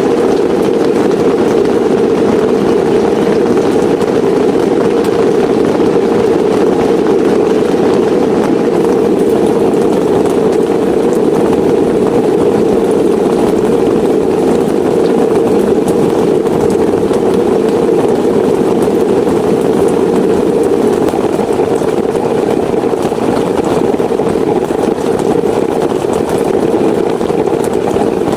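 Heavy rain falling steadily, a dense, even, low-pitched rush without let-up.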